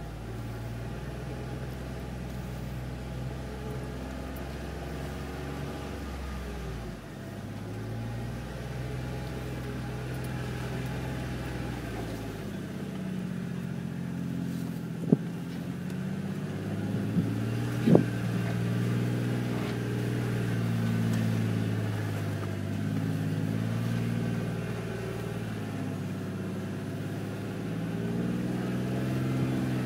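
Jeep JK Wrangler's engine heard from inside the cab, pulling at low revs as it crawls up steep slickrock, its pitch rising and falling with the throttle. Two sharp knocks a few seconds apart near the middle stand out above the engine.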